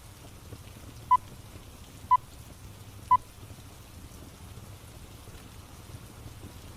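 Three short electronic beeps, evenly a second apart, over steady rain: a timer signalling the end of a 25-minute pomodoro work session.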